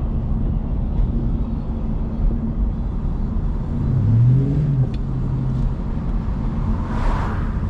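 Car engine running with a steady low rumble, rising briefly in pitch about four seconds in and then holding.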